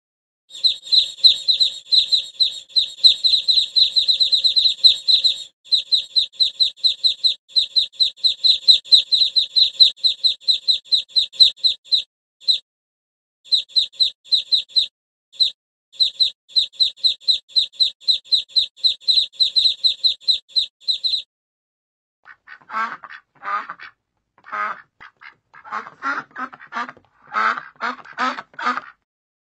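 Domestic ducks calling: a long, rapid run of high-pitched peeps several a second, broken by short gaps, that stops about 21 seconds in. After a short pause comes a series of rougher, lower quacks.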